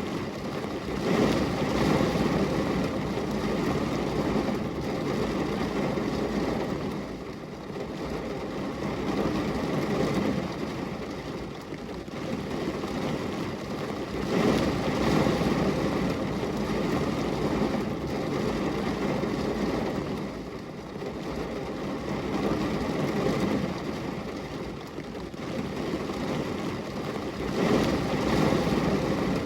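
Rain falling on a glass window: a continuous hiss that swells and eases every several seconds.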